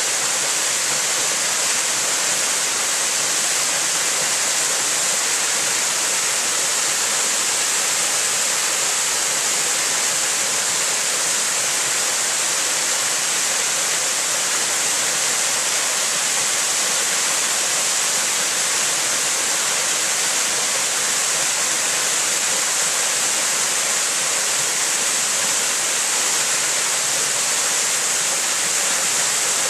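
Waterfall pouring steadily: a constant, even rushing hiss with no breaks or changes.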